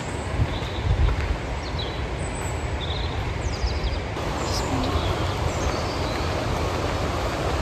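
Steady outdoor wind-and-rain noise. Low gusts buffet the microphone in the first second or so, and a few faint bird chirps come through.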